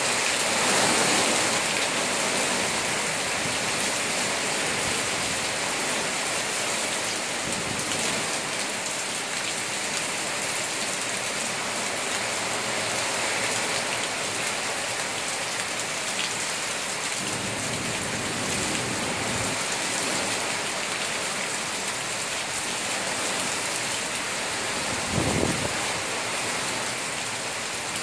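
Heavy, wind-driven hurricane rain pouring down steadily. Near the end there is one brief low thump.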